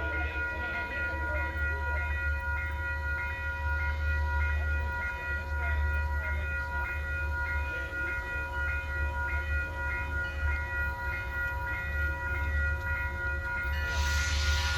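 Train locomotive running close by: a steady low rumble under several steady high tones, with a hiss rising near the end.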